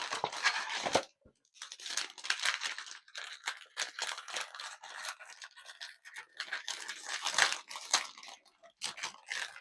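Blind box packaging being torn and crinkled open by hand, in a run of short scratchy rips and rustles with brief pauses.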